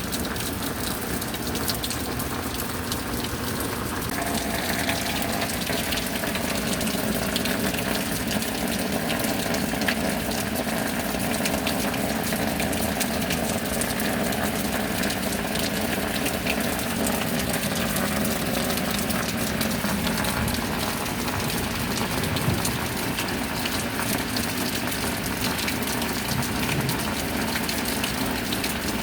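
Steady rain with water running and gushing, a little fuller from about four seconds in.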